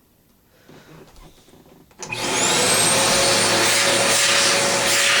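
Aspiron 1200W bagless upright vacuum cleaner switched on about two seconds in: its motor whines up quickly to a high pitch, then runs loud and steady.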